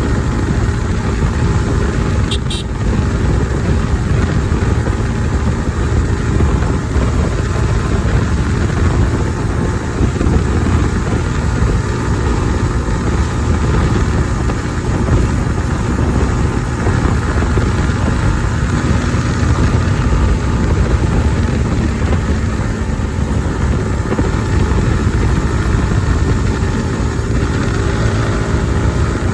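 Kawasaki ZX-10R's inline-four engine running at a steady cruise while the motorcycle is ridden, with road and wind noise over it. There are no big revs or pitch changes.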